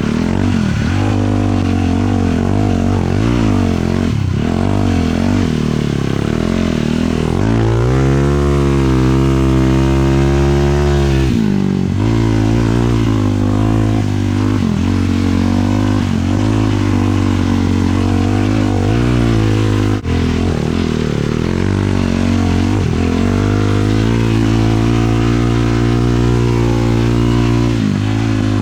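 450cc single-cylinder four-stroke sport quad engine running under way, its revs rising and falling with the throttle. About a third of the way in the revs are held high and steady for a few seconds, and there is a brief drop in the sound near two-thirds of the way through.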